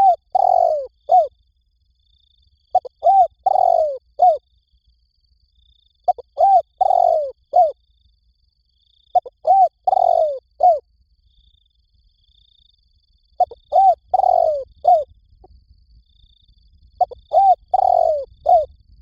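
Spotted dove cooing: a phrase of three or four short coos with a longer drawn-out note in the middle, repeated six times, about every three and a half seconds.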